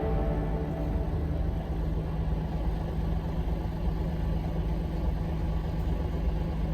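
Large truck's diesel engine running steadily, a low even rumble heard from the cab.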